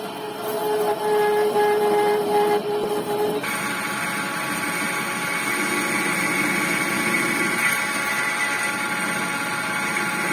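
Manual metal lathe running during left-hand internal thread cutting: a steady mechanical drone with steady whining tones. About a third of the way in the sound changes abruptly to a brighter, higher whine.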